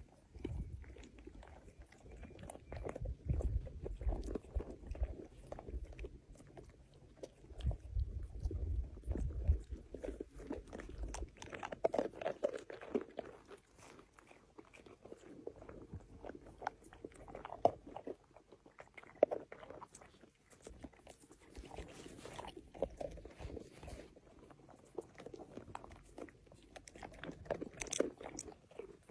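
Irregular crunching and chewing close to the microphone, typical of a kangaroo eating, with scattered small clicks. A low rumble comes and goes during the first ten seconds or so.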